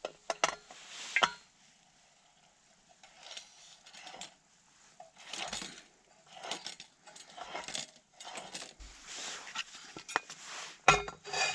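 Scattered metallic clinks and rattles of camp cooking gear being handled, with short rustling sounds between them.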